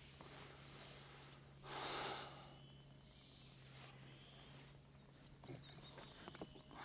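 Near silence with a faint, steady low hum of a distant motor running, and one short breathy rush of noise about two seconds in.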